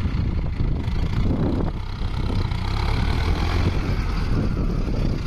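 Mahindra Arjun Novo 605 DI tractor's 57 hp diesel engine running steadily, with a lot of added higher-pitched noise between about one and a half and four seconds in.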